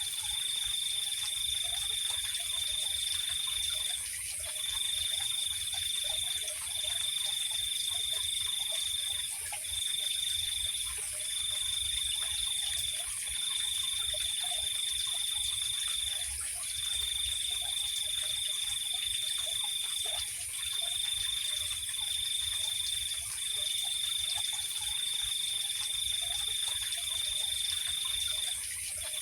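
Night chorus of crickets and frogs. A high-pitched cricket trill runs in long stretches of one to four seconds with brief breaks, over a steady, even higher insect drone, scattered soft low frog calls and a faint low rumble.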